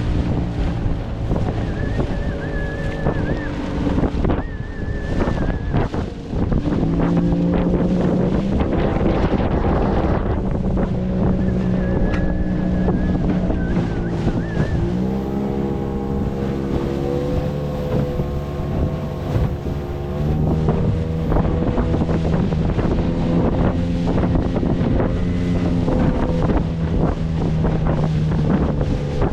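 A small boat's motor running steadily, its pitch stepping up and down a few times as the throttle changes, with wind buffeting the microphone and water splashing.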